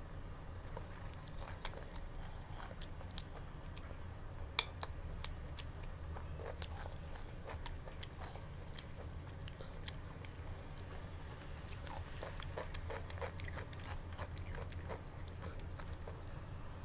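A person chewing a mouthful of chicken biryani, with frequent sharp wet mouth clicks and smacks, over a steady low hum.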